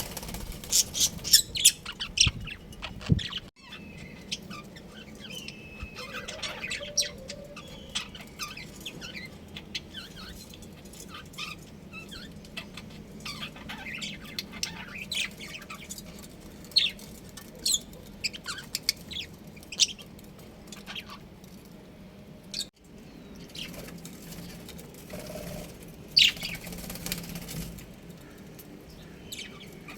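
Budgerigars chirping in short, scattered calls, with sharp clicks among them. The sound drops out briefly twice, about three and a half seconds in and again about three-quarters of the way through.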